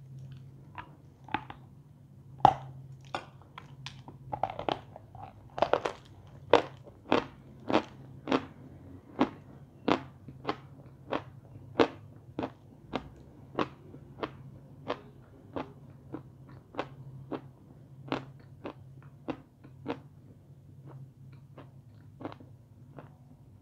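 Crunching bites into a dry block of edible chalk, then steady chewing with a crisp crunch about every half second or so, growing softer near the end as the piece breaks down.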